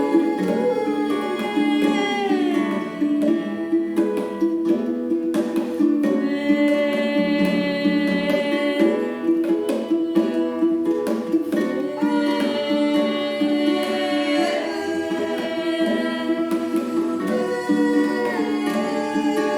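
Women's voices singing long held notes, some sliding in pitch, over a plucked requinto guitar.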